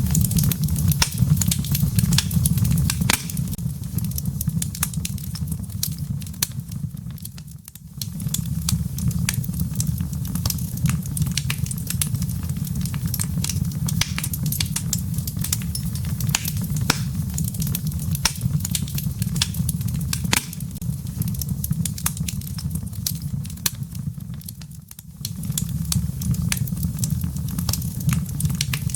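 Wood fire in a fireplace, its embers crackling with many short, sharp pops over a steady low rumble. The low rumble briefly fades away twice and then returns.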